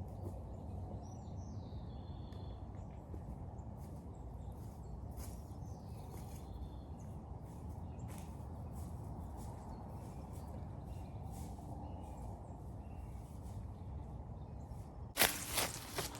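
Woodland ambience: a steady low rumble with a few faint bird calls early on, then loud crunching footsteps starting about a second before the end.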